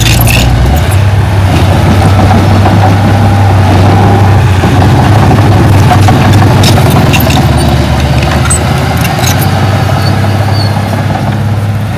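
Heavy diesel engine of earthmoving machinery running steadily at a low, even hum, with a few sharp clicks, one near the start and several around the middle.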